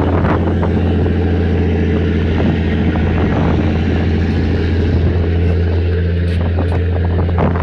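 Boat engine running at a steady speed, a loud low hum, with the rush of water and wind over it and a few brief splashes.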